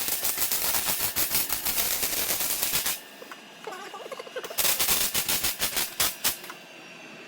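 Impact wrench hammering in rapid hits on exhaust hardware as the exhaust is fitted. A long burst lasts about three seconds, and a shorter one comes after a brief pause.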